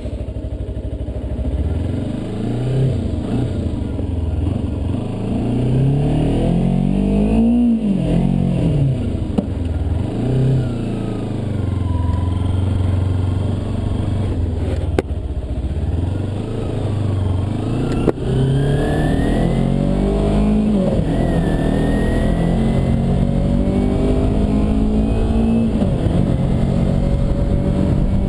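2009 Kawasaki Ninja 250R's parallel-twin engine pulling away and accelerating, its revs climbing and dropping again and again as it shifts up through the gears.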